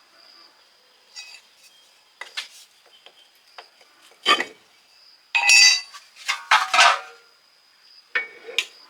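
Metal tools and parts being handled: irregular clinks and clanks, the heaviest cluster about halfway through, over a faint steady high whine.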